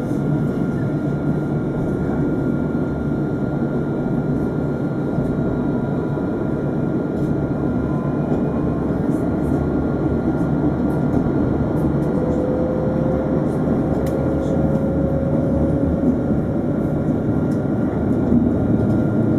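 Alstom Citadis 402 tram running, a steady rumble with a faint whine that rises slowly in pitch over the second half.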